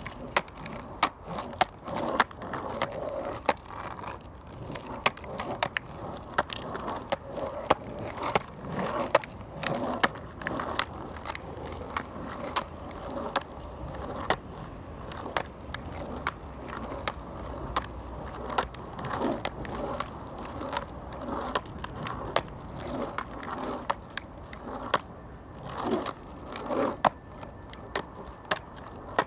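Skateboard rolling on pavement: a steady rumble from the wheels, broken by frequent sharp clacks.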